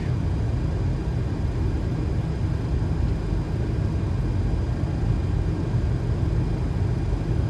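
Boeing 737 flight-deck noise on final approach: a steady low rumble of airflow and engines.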